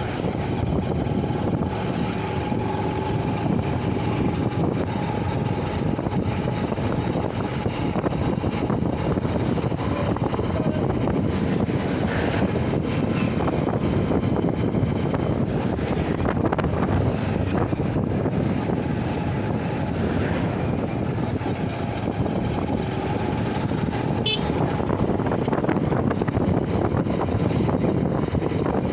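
Honda Shine SP 125's single-cylinder engine running at riding speed, mixed with a steady rush of wind and road noise.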